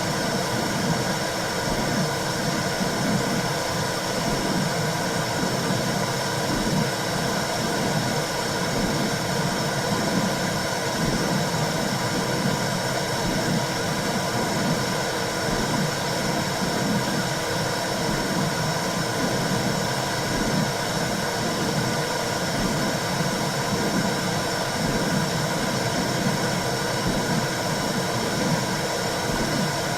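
Womb sound for calming a newborn: a steady hiss over a low, pulsing whoosh, without a break.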